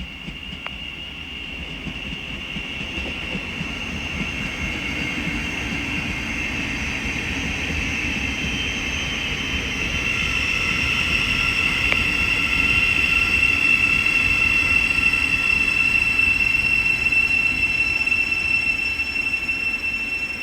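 A train on the rails, a steady high-pitched ringing squeal over a low rumble, growing gradually louder and easing off just at the end.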